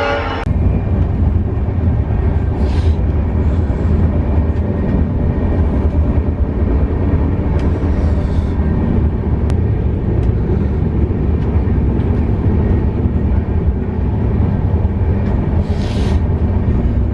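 Train running on the rails, a steady low rumble, with a few short hisses.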